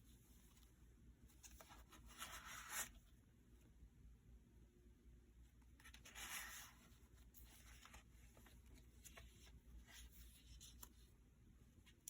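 Faint rustling of paper pages in a handmade junk journal being handled and turned, with two louder rustles about two and six seconds in and small taps and clicks between.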